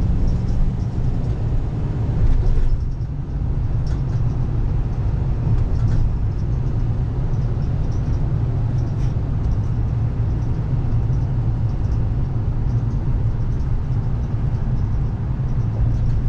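The 6.7-litre Power Stroke turbo-diesel V8 of a 2014 Ford F550 running under way, heard from inside the cab along with road noise as a steady low rumble. The sound briefly drops in level about three seconds in.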